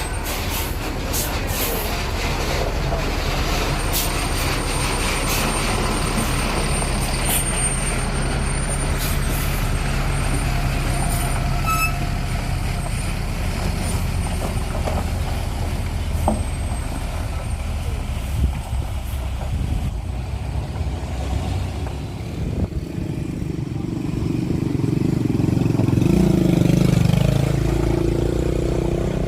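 Motor vehicle engine labouring up a steep climb, running steadily. Scattered clicks and a thin high whistle come in the first half, and the engine grows louder and higher near the end as it revs harder.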